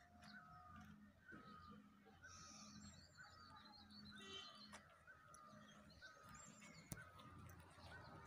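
Faint birdsong: one bird repeating a short falling call about twice a second, with a few higher chirps from other birds. One sharp click near the end.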